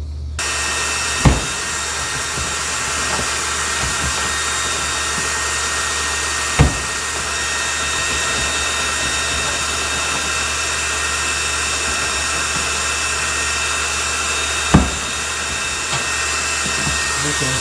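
Hair dryer running steadily on high, a rushing blow with a faint whine, switched on about half a second in, heating a refrigerator water-filter latch that is stuck, possibly frozen. Three sharp knocks sound over it, spread out across the stretch.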